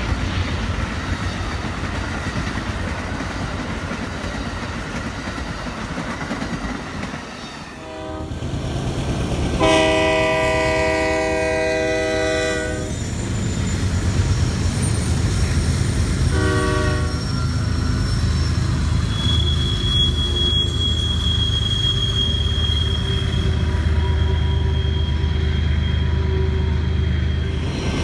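Amtrak Superliner passenger cars rolling past with a steady rumble of wheels on rail. Then BNSF diesel freight locomotives passing a grade crossing sound their air horn: a short blast, a three-second long blast and another short blast. The freight cars' wheels follow with a steady low rumble and clatter and a brief high squeal.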